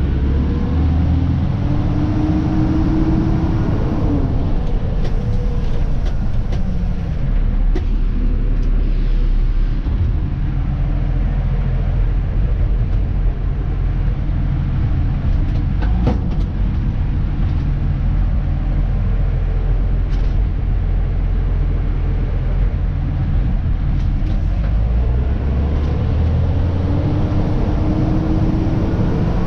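Dennis Elite 2 refuse truck's diesel engine and drivetrain heard from inside the cab, a steady heavy rumble. The engine note rises shortly after the start and again near the end, with a few light knocks and rattles in between.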